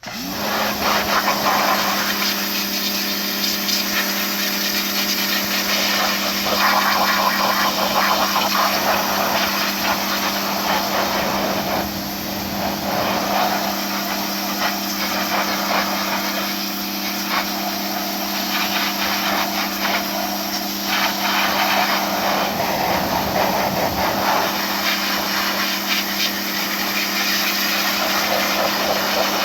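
A motor-driven machine spins up and runs steadily with a constant hum, with irregular scraping and rubbing noise over it.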